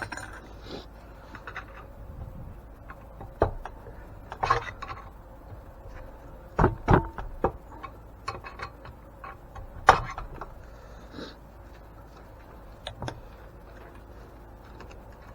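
Scattered knocks, taps and scrapes of hand work on metal parts, with a sharp knock about ten seconds in the loudest, over a low steady hum.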